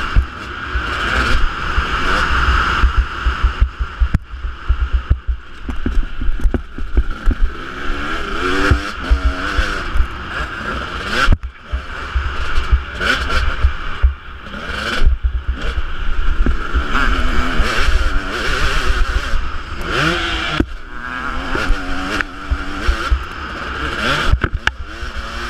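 Husqvarna 250 two-stroke motocross bike being ridden, its engine revving up and falling back again and again with frequent brief cut-offs of the throttle, with wind buffeting the microphone.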